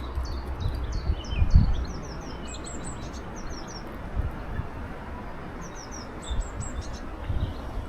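Songbirds singing: runs of short, quick, high chirps, in two main bursts, over a low rumble of wind on the microphone.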